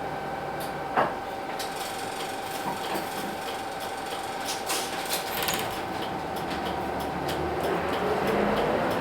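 Hino Blue Ribbon City bus with its P11C diesel running: a steady whine over a low rumble, a sharp knock about a second in, then a run of rattling clicks. Near the end the engine note rises and grows louder, ending in another knock.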